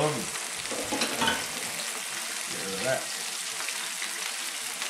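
Drained canned lentils sizzling in hot oil in a frying pan, a steady crackling hiss, with a few brief knocks about a second in.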